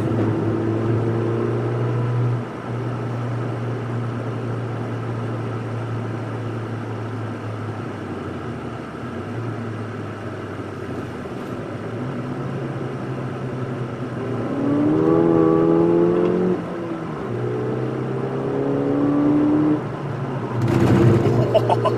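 Ford Fiesta ST's turbocharged 1.6-litre four-cylinder heard from inside the cabin on track, holding steady revs for the first half. About two-thirds of the way in the revs climb twice under acceleration, with an upshift between the pulls; a short burst of noise comes near the end.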